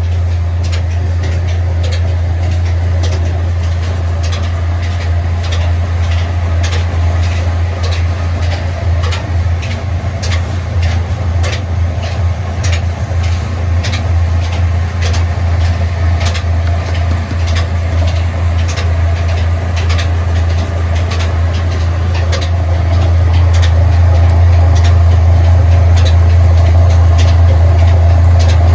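Ruston diesel engine running steadily, a deep even drone under a regular beat of sharp knocks, roughly twice a second. It gets louder about 23 seconds in.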